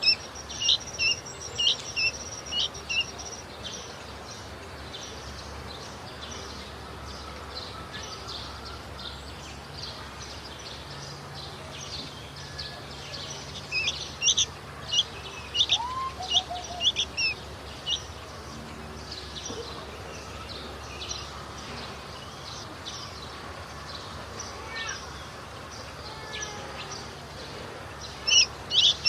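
Young hand-reared sooty-headed bulbul (kutilang) calling in quick bouts of short, sharp, high chirps, several a second, with quieter gaps between the bouts.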